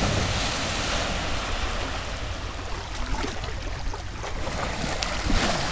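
Rushing water with wind buffeting the microphone, and a few sharp knocks near the end.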